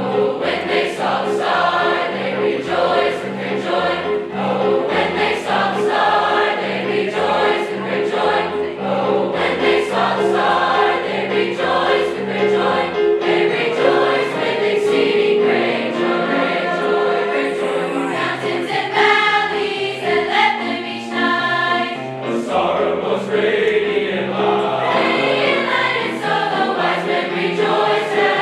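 High school choir singing over an instrumental accompaniment with a regular stepping bass line.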